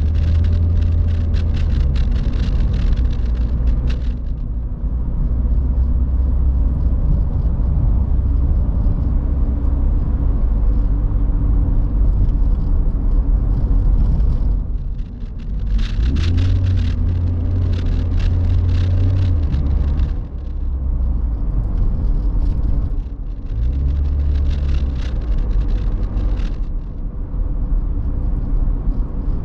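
Toyota 86's flat-four engine with an HKS aftermarket exhaust, running under way. The low drone steps up and down in pitch several times, with stretches of rushing noise over it.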